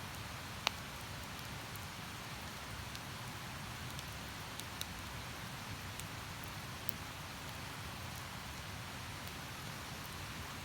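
Steady rushing of a flowing stream, with a campfire giving scattered sharp crackles and pops, one louder pop about a second in.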